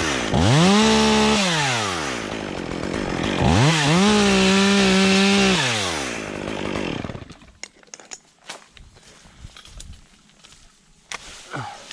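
Stihl MS 201 top-handle two-stroke chainsaw revved to full throttle twice while cutting wood. Each burst rises quickly, holds steady for about two seconds and winds back down. After about seven seconds the saw falls quiet, leaving a few light knocks and rustles.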